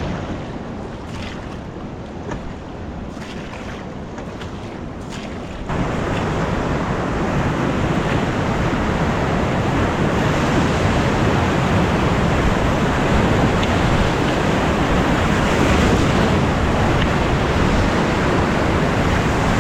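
Rushing whitewater of river rapids, a steady roar of water noise that jumps up sharply in loudness about six seconds in.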